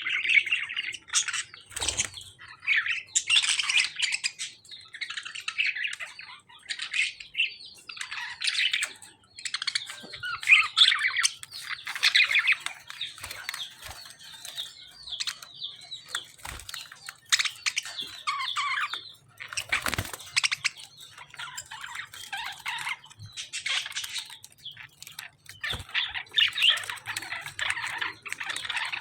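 A flock of pet budgies and lovebirds chirping and squawking continuously in a busy, overlapping chatter. A few sharp knocks cut through, one about two seconds in and one about two-thirds of the way through.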